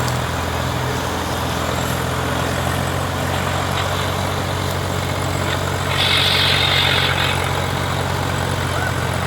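Tractor diesel engine running steadily at low speed, with a brief hiss lasting about a second starting about six seconds in.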